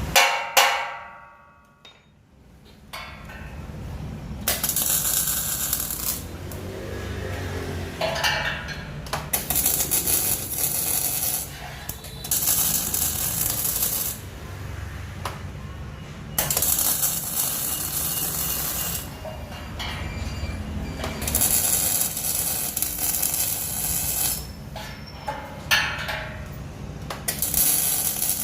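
A single ringing metal clang, then repeated bursts of hissing lasting one to three seconds each, over a low steady hum.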